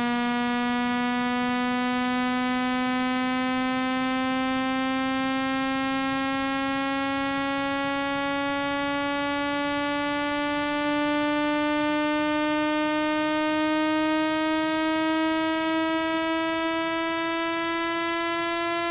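Electronic speaker-cleaning tone, a low buzzing tone rich in overtones that glides slowly and steadily upward in pitch. It is played through a phone speaker to vibrate the diaphragm and push water and dust out of the grille.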